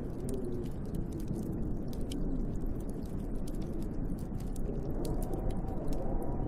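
Snowstorm wind blowing in steady gusts, with a low whistling that rises and falls, louder near the end. Many small sharp clicks and ticks run through it.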